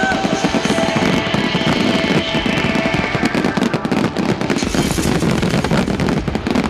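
Fireworks crackling, a dense stream of rapid small bangs and pops.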